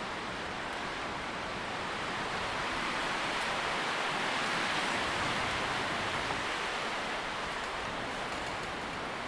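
Wind moving through tree leaves, a steady rustling hiss that swells a little in the middle and eases off again.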